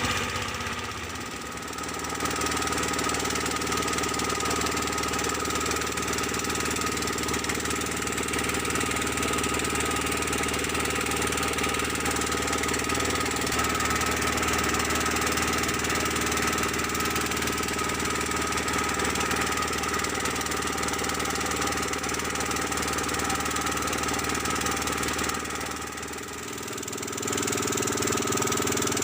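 An engine running steadily at an even speed, dipping briefly in level about a second in and again near the end.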